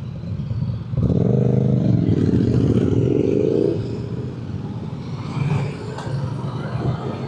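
Motorcycle engine accelerating hard about a second in, its pitch climbing for a few seconds, then dropping back to quieter, steadier running.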